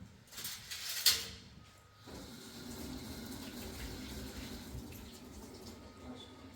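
Running water, as from a tap into a sink: a steady rush that starts about two seconds in and runs on for several seconds, after a few short splashy sounds.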